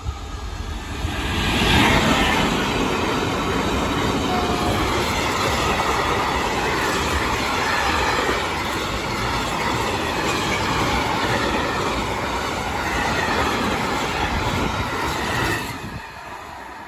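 Freight train of tank wagons hauled by an electric locomotive passing close by at speed: loud, steady rumble and clatter of wheels on the rails from the locomotive's arrival about two seconds in, until the last wagon goes by and the noise drops off sharply near the end.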